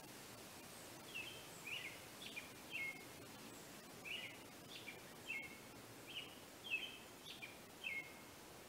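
A small songbird singing in the background: a run of short chirps, each sliding down in pitch, starting about a second in, pausing briefly, then going on until near the end, over a faint steady hiss.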